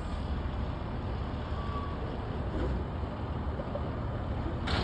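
Garbage truck engine running with a steady low rumble, with a brief hiss near the end.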